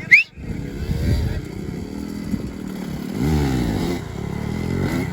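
Motocross dirt bike engine running and revving, its pitch sweeping up and back down about three seconds in. A brief, loud rising sound right at the start.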